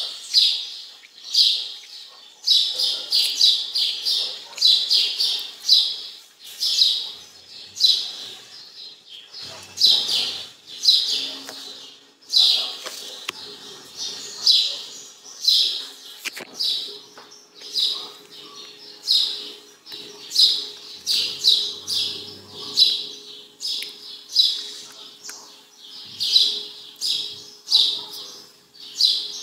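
A bird chirping over and over in short high chirps, one or two a second.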